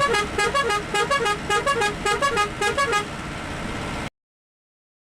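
Bus's musical multi-tone horn playing a quick repeating tune of short stepped notes for about three seconds, over steady road noise. The sound cuts off suddenly about four seconds in.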